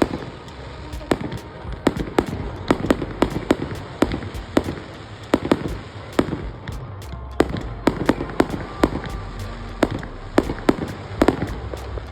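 Fireworks display going off: a rapid, irregular volley of bangs, several a second, over continuous crackling, with music playing underneath.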